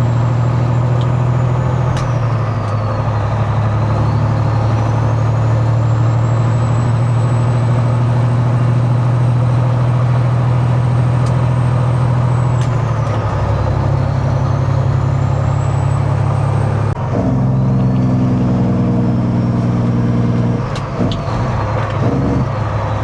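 Semi-truck's diesel engine running steadily while driving, heard from inside the cab. Its note changes about 13 seconds in and again about 17 seconds in, with a brief dip in level at the second change.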